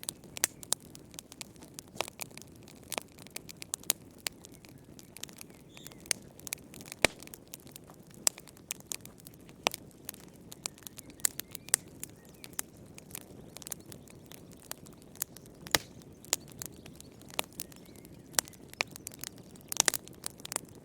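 Wood fire burning in a fireplace: irregular sharp crackles and pops from the burning logs over a soft low rumble of the flames.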